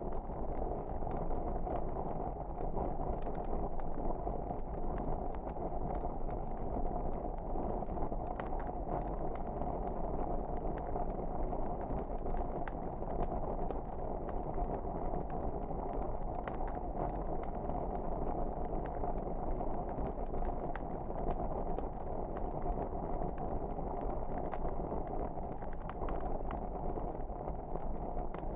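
Log fire burning: a steady low rumble of flames with many small crackles and pops scattered throughout.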